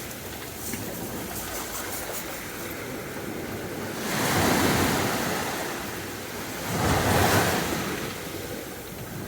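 Sea waves breaking on a beach: a steady wash of surf, with two waves crashing louder about four and about seven seconds in.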